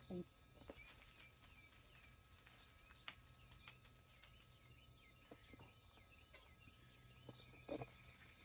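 Faint birdsong: small birds chirping over and over, with a few sharp clicks.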